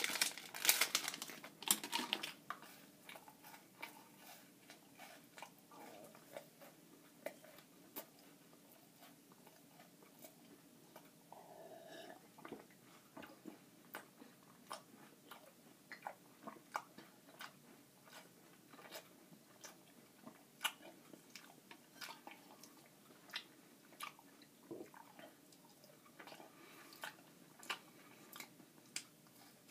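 Close-up chewing and crunching of a crunchy Nature Valley granola bar: irregular short, sharp crunches, with louder crinkling at the start.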